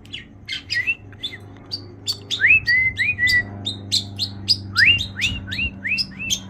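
Budgerigar chattering: a rapid run of clicks and short chirps mixed with rising whistled notes, with a string of quick rising whistles near the end.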